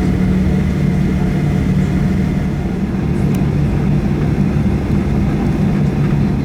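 Steady cabin drone of a Boeing 737-800 taxiing, its CFM56 engines running at low thrust under a constant hiss of air rushing through the cabin.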